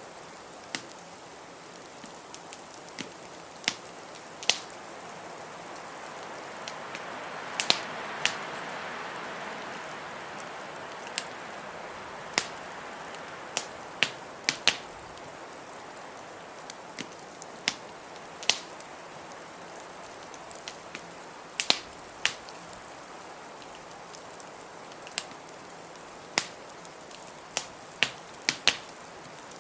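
Wood fire crackling in a fireplace, with sharp, irregular pops, over a steady hiss of blizzard wind that swells for a few seconds about a quarter of the way in.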